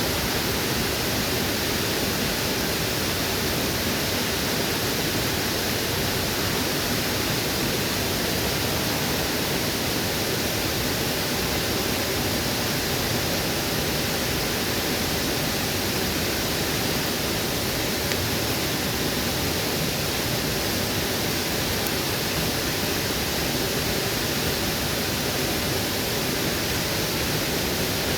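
Waterfall rushing, a steady unbroken wash of water noise.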